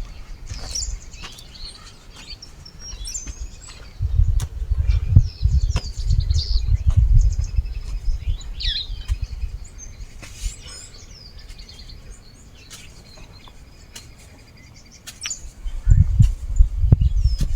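Several birds chirping and trilling, short calls overlapping throughout. A low rumble swells twice, once about four seconds in and again near the end, with a few sharp clicks scattered through.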